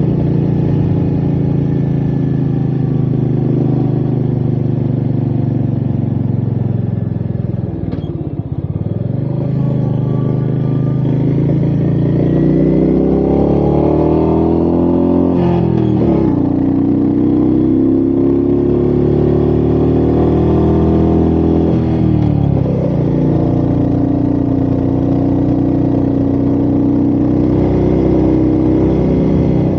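Royal Enfield Meteor 350's single-cylinder engine under way. The revs ease off about eight seconds in, then climb and drop sharply twice as it shifts up, about halfway through and again a few seconds later, and it runs steady after that.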